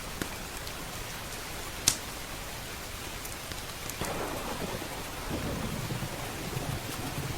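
Steady heavy rain, with a low rolling rumble of thunder that begins about four seconds in. One sharp pop about two seconds in is the loudest sound.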